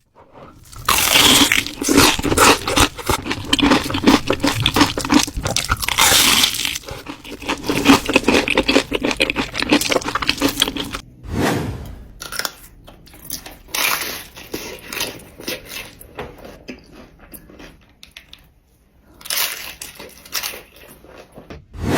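Biting and chewing crunchy food: dense, loud crackling crunches for the first ten seconds or so, then softer, sparser chewing, with another loud burst of crunching near the end.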